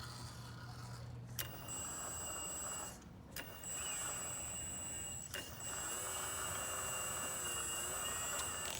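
Hydraulic pump motor of a MAGOM HRC 330D CAT radio-controlled excavator whining in three runs, each starting and stopping sharply. In the last and longest run a lower tone wavers up and down in pitch as the load on the hydraulics changes.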